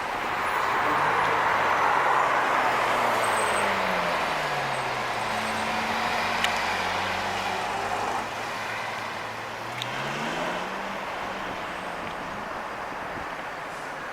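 A car engine in street traffic over steady road noise. Its note drops over the first few seconds, holds low, then rises again about ten seconds in.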